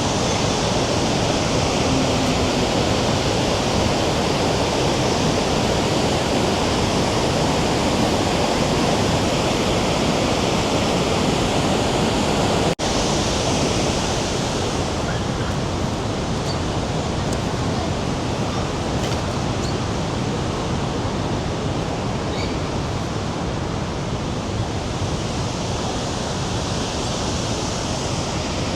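Rhine Falls waterfall: a steady, loud rush of falling water. About halfway through it drops out for an instant and comes back slightly softer.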